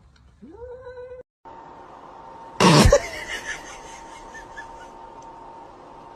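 A short animal cry, rising and then holding its pitch, cuts off abruptly. About two and a half seconds in comes a sudden loud burst, the loudest sound here, and after it a faint steady hum.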